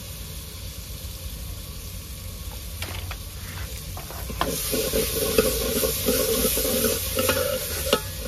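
Spiced onion-tomato masala frying in oil in a pot while it is stirred with a spoon: a sizzle that grows louder about four and a half seconds in, with scattered knocks and scrapes of the spoon against the pot.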